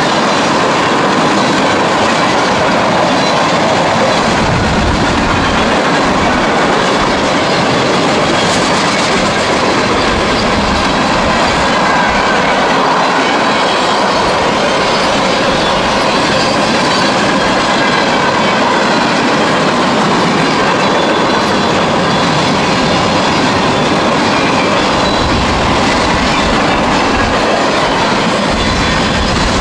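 Freight cars of a passing CSX manifest train rolling by at close range: a loud, steady rumble and rattle of steel wheels on rail, with wheels clicking over rail joints.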